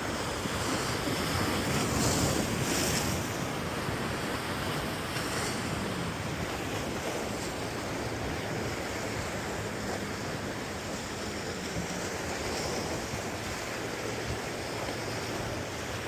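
Ocean surf washing against jetty rocks, a steady rushing wash that swells a little about two seconds in, with wind buffeting the microphone.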